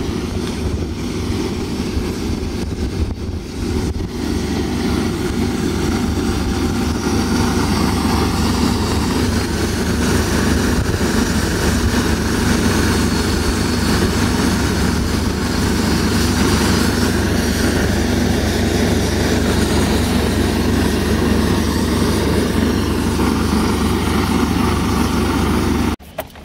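A steady, loud, low engine drone from the news van running beside the camera, even and unchanging throughout.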